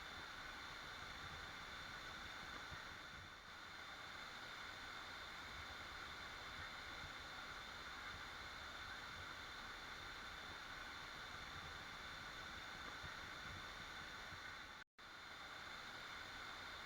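Steady rushing of a waterfall, an even hiss of falling water. It cuts out for an instant about fifteen seconds in.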